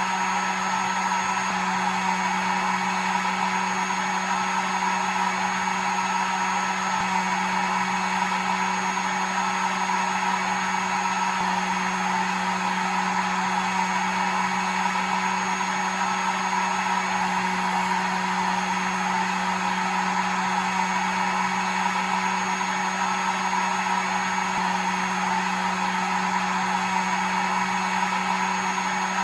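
Electric hair dryer running steadily, a constant blowing whoosh with a motor hum underneath.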